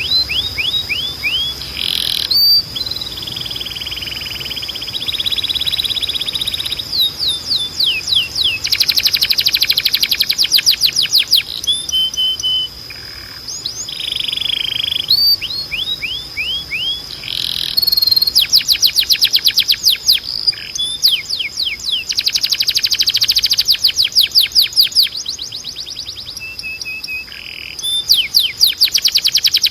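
Spanish Timbrado canary singing without a break: phrases of falling whistled notes, fast even trills of repeated notes, and short buzzy rolls, one phrase after another.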